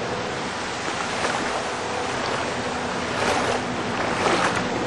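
Tropical storm wind rushing steadily over the microphone, swelling a little in gusts.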